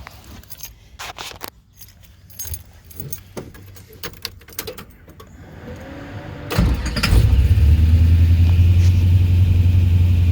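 Keys jangling and clicking for several seconds, then the Trans Am's built 6.0-litre LQ9 V8 cranks and fires about six and a half seconds in. It settles into a steady idle through long-tube headers and a Magnaflow stainless exhaust.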